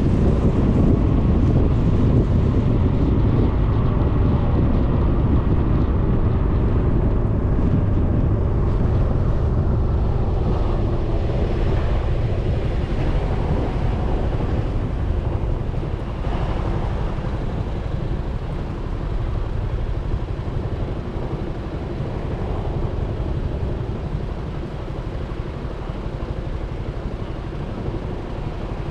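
Wind rushing over the microphone of a Suzuki Burgman 400 scooter's mounted camera, with road and engine noise from the moving scooter underneath. The noise slowly eases off.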